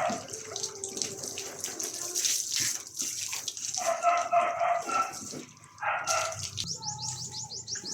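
Running water splashing during a dog's bath, with a dog whining briefly about four seconds in and again about six seconds in.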